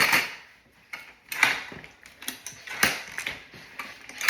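Short mechanical strokes, repeating about every second and a half, with the first and last the loudest.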